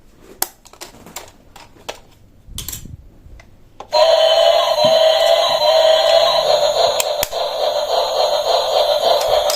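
Small clicks and taps of plastic toy pieces being handled, with a short rustle just before a loud, steady electronic tune starts suddenly about four seconds in.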